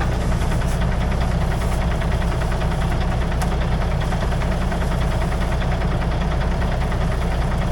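Engine idling steadily with an even low rumble.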